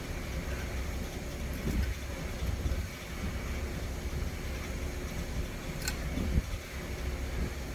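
Milling machine running with a steady low hum, a few soft knocks and one sharp click about six seconds in.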